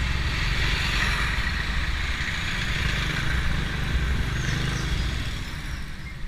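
Motorstar Nicess 110 underbone motorcycle running on the road, its engine mixed with steady wind and road noise. The sound eases a little near the end.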